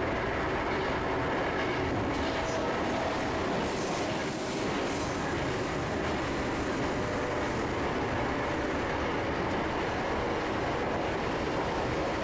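Electric commuter train running, heard from inside the front car: a steady rumble of wheels on rail with a faint motor hum. A brief high wheel squeal comes about 4 to 5 seconds in as it rounds a curve.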